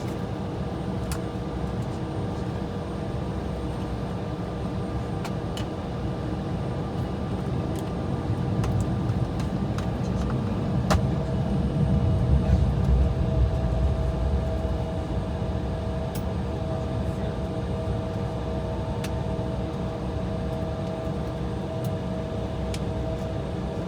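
Steady low rumble inside a jet airliner's cabin as it waits on the taxiway with engines idling. A louder rumble swells up about eight seconds in and fades by about fifteen seconds, as a JetBlue Airbus A320 takes off outside; a steady hum tone comes in about eleven seconds in.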